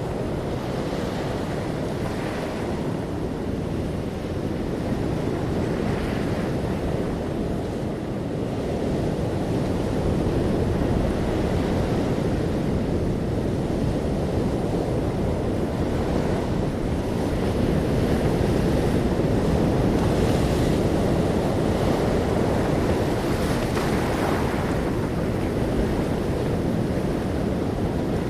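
Ocean waves breaking and washing in with wind, a steady deep rush that swells and eases slowly, with a brighter hiss as individual waves break.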